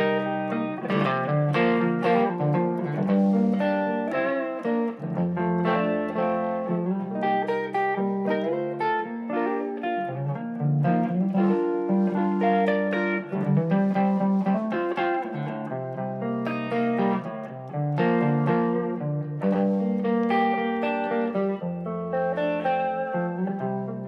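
Instrumental break of a psychedelic rock song: guitar plays a melodic line over sustained bass notes, with no vocals.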